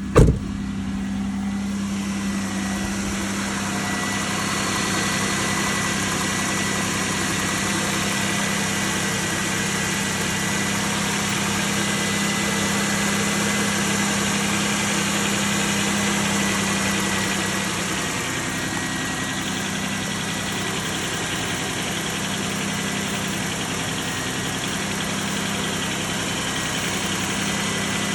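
Chevrolet 3400 3.4-litre V6 in a 2004 Chevrolet Venture minivan, cold: a sharp loud burst at the very start, then the engine idling steadily at warm-up, with a faint steady whine above it. The sound eases a little about 18 seconds in.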